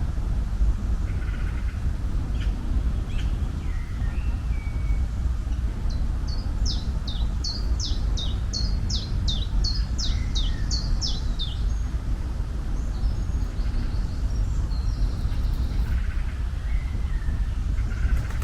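Birds singing over a steady low rumble. About six seconds in, one bird sings a run of quick notes, each falling in pitch, about three a second for some five seconds; scattered shorter chirps come before and after it.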